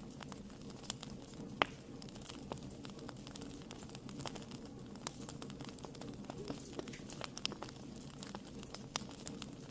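Wood fire burning in a fireplace: a steady low rumble of flames with irregular sharp crackles and pops, one louder pop about a second and a half in.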